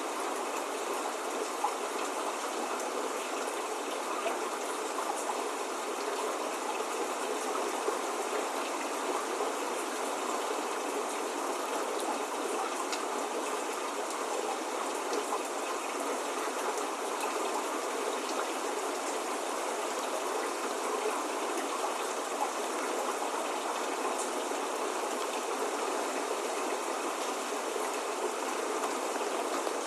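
Steady spring rain falling: an even hiss with faint scattered drop ticks.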